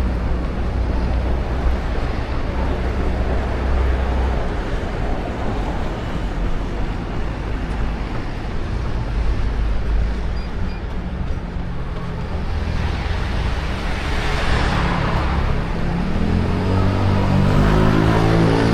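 City road traffic with a steady low rumble. A car passes about fourteen seconds in, and near the end an engine speeds up with rising pitch as a vehicle pulls away.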